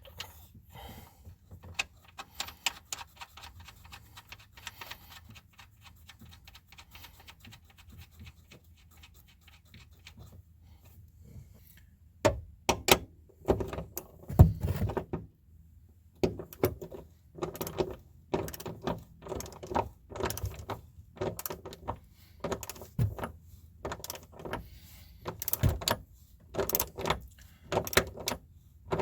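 Hand tools on the rear strut's upper mount nuts: a ratchet clicking quickly and quietly, then, a little before halfway, louder short runs of ratchet clicks with metal clinks and knocks as the nuts are tightened.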